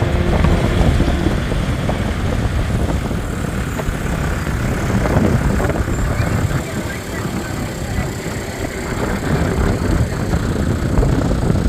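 Four-wheel-drive engine running as a vehicle works through soft sand, with wind rumbling on the microphone.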